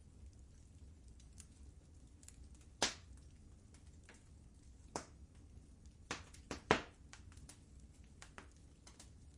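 Wood fire crackling in a fireplace: sharp pops and snaps over a low steady rumble, with a loud pop about three seconds in and a quick cluster of pops near the end.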